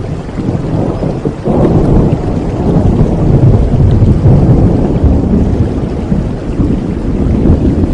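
Rain falling steadily with a long roll of thunder that builds about a second and a half in, rumbles loudest in the middle, and slowly eases off.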